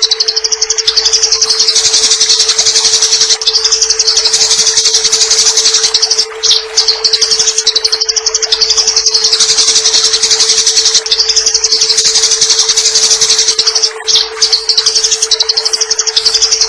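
Eurasian tree sparrow (burung gereja) chattering in fighting mood: a rapid, unbroken, high-pitched 'nyerecet' chatter, breaking off briefly about six and fourteen seconds in, over a steady low hum.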